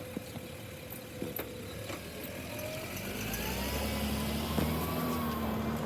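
Autocar garbage truck's engine running and drawing nearer, growing louder about three seconds in, with a faint whine that rises and falls in pitch.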